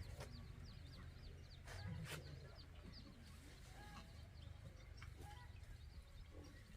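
Chickens clucking and peeping faintly in many short, falling chirps, with a few sharp clicks and a low rumble underneath.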